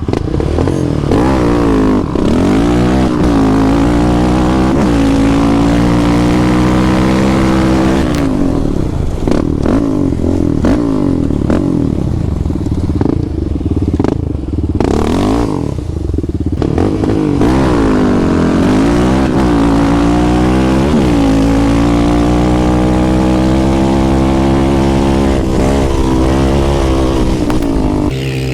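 Off-road vehicle engine accelerating hard, its pitch climbing and dropping back again and again as it shifts through the gears, with stretches held steady at speed and some clatter along the way.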